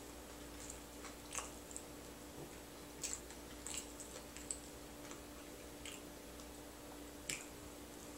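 Close-up eating sounds: quiet chewing with a handful of short wet mouth clicks and smacks, spaced irregularly.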